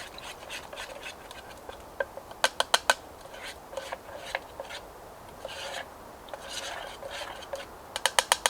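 Pancake batter being stirred by hand in a bowl: a utensil scraping and rubbing around the bowl. A quick run of clicks against the bowl comes about two and a half seconds in, and fast clicks start again near the end.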